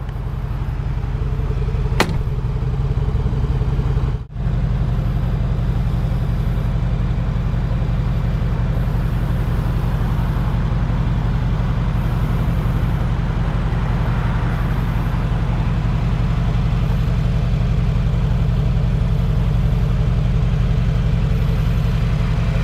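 2020 Mercedes-Benz G63 AMG's twin-turbo V8 idling steadily with a deep, even exhaust note. A single sharp click about two seconds in.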